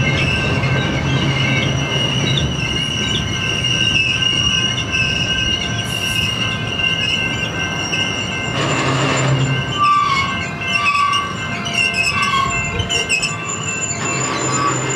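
Double-stack intermodal train's well cars rolling past, steel wheels squealing on the rail in steady high-pitched tones over a low rumble. Louder rushes of rolling noise come about halfway through and near the end.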